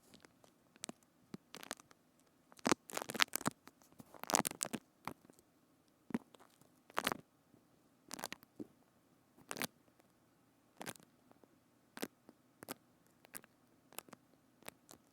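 Close-miked ASMR trigger sounds on a binaural microphone: irregular crisp clicks and crackles, a denser cluster about three to five seconds in, then single clicks every second or so.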